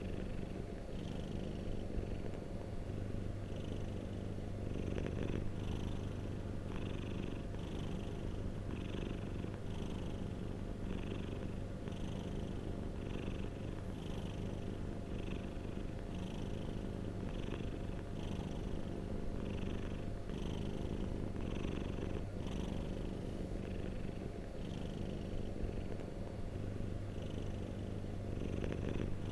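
Domestic cat purring steadily: a continuous low rumble with an even, repeating rhythm.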